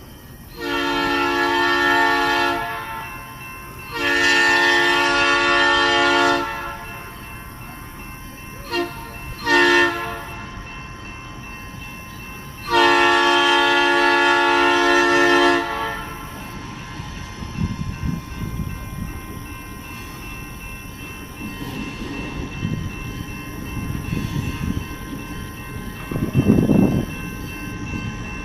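Diesel locomotive's multi-chime air horn blowing the grade-crossing signal, long, long, short, long, from SOO Line GP38-2 4417. The locomotive and its train then come up with a low rumble of engine and wheels, loudest about 26 seconds in.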